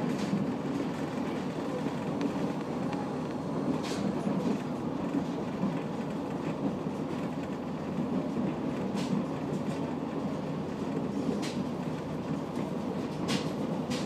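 Kitakinki Tango Railway diesel railcar running, heard from inside the car: a steady low rumble of wheels and engine, with a few scattered sharp clicks.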